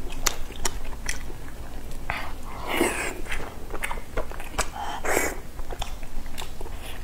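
Close-up wet chewing and lip-smacking of people eating soft, fatty braised pork and rice, with many small mouth clicks. Two louder, breathier mouth noises come about three and five seconds in.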